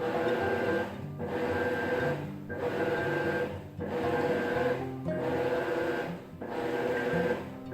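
Maytag top-load agitator washing machine running, a mechanical hum and whine that dips briefly about every one and a quarter seconds, in a steady rhythm.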